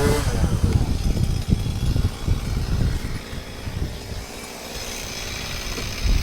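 Two-stroke chainsaw idling between cuts, an uneven low running sound that drops off in the middle and picks up again near the end.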